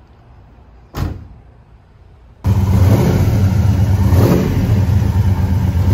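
A single thump about a second in, then from about two and a half seconds a 396 big-block V8 running loud, its revs swelling and falling.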